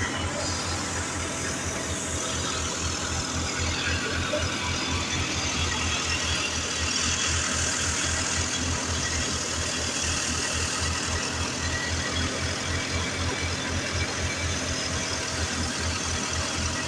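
Tractor engine running steadily while driving a wheat thresher: a fast, even low thumping under a constant hiss.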